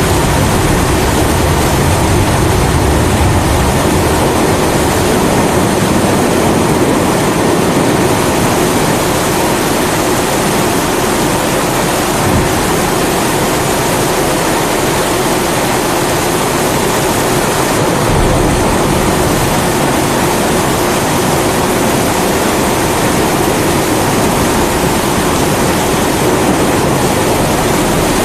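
Pressurised kerosene primus stove burning with a steady roar, mixed with the even hiss of heavy rain. Low rumbles of thunder swell near the start and again about eighteen seconds in.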